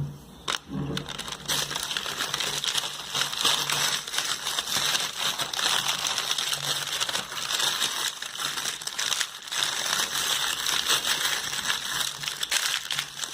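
Packing material crinkling and rustling continuously, with many small crackles, as a boxed muffler is unwrapped and handled. The rustling starts up strongly about a second and a half in.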